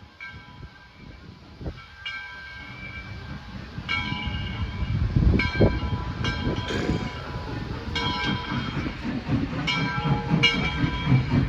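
Southern Railway 630, a 2-8-0 steam locomotive, sounding a multi-note chime whistle in a string of short and longer blasts as it approaches. The locomotive's running rumble grows louder from about four seconds in.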